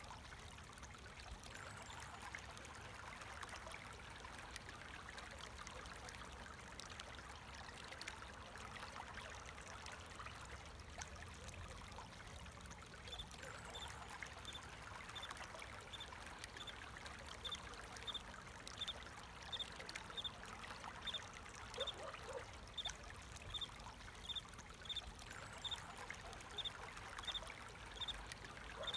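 Steady trickle of flowing water. About halfway through, a cricket starts chirping, a short high chirp repeated about twice a second.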